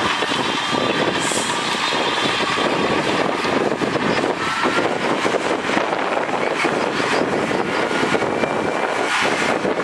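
Heavy earthmoving machinery running steadily under diesel power, a dense engine and machine noise with faint thin squealing tones over it.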